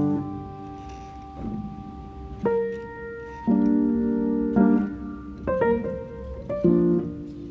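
Background music: piano chords struck one after another, each ringing and fading, over a low hum.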